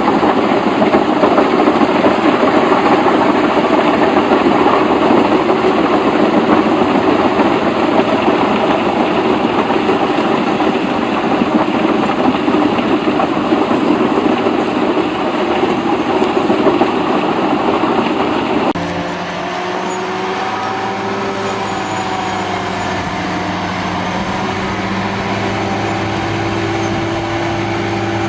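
Heavy machine engine running with a dense, noisy clatter, then after an abrupt cut about two-thirds of the way in, an engine running steadily with a low, even hum.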